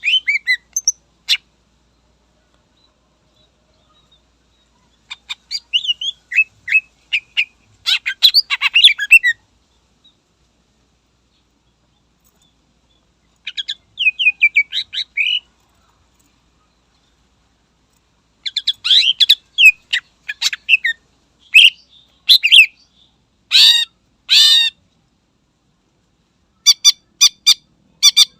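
Cucak ijo (green leafbird) singing in bursts of rapid, varied chirps and trills with pauses of a few seconds between phrases. Near the end it breaks into a fast run of sharp repeated notes, about three a second.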